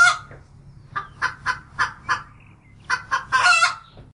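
Chickens clucking in short repeated calls, with a longer drawn-out call near the start and another about three and a half seconds in, over a steady low hum.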